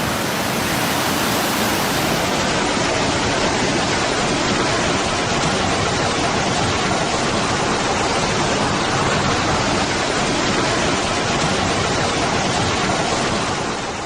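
Fast-flowing floodwater rushing in a steady, loud torrent.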